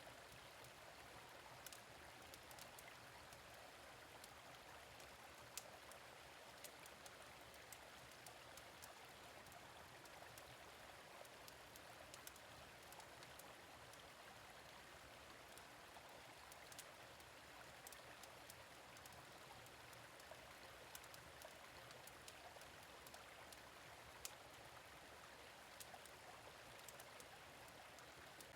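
Faint, steady flow of a gentle stream, with scattered sharp pops from a crackling fire-pit fire.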